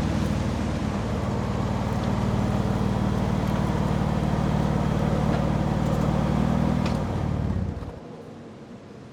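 An engine running steadily with a low hum, which dies away about eight seconds in, leaving a quieter background hiss.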